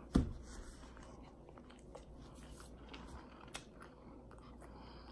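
Close-up chewing of a mouthful of fried egg roll: quiet wet mouth sounds and small clicks, with one dull thump just after the start.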